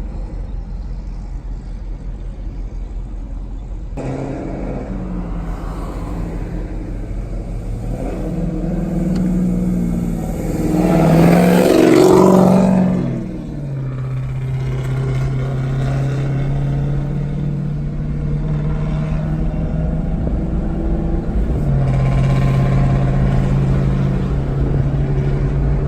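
Subaru WRX's turbocharged flat-four engine running under way, building to a louder surge of acceleration about halfway through that drops off abruptly, then settling back to steady cruising.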